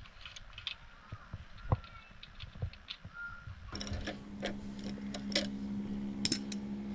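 Scattered metallic clicks and clinks of hand tools working on the chainsaw engine as its spark plug is taken out. A steady low hum starts abruptly about halfway through.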